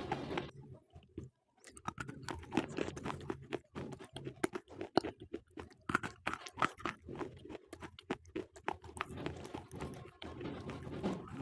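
Slate pencil being bitten and chewed: rapid, irregular dry crunches and cracks, with a brief pause about a second in.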